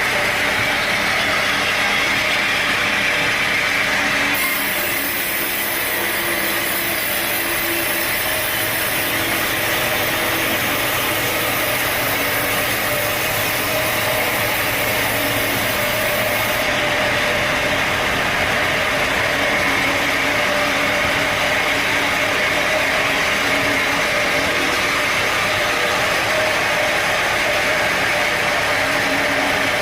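Sawmill machinery running steadily. A high hiss joins in about four seconds in and drops away about seventeen seconds in.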